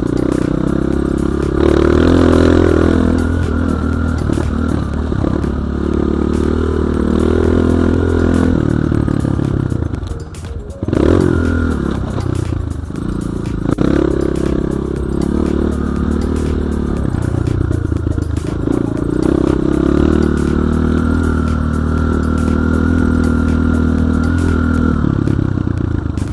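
BSE J1 enduro motorcycle engine running under varying throttle, with clattering and knocks from the bike. The revs drop off briefly about ten seconds in, then pick up again.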